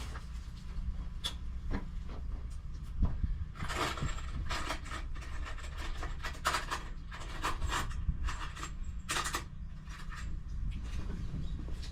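Irregular scraping and rubbing strokes of hand work on the mower's blade cover, starting a few seconds in and thinning out near the end, over a low steady hum.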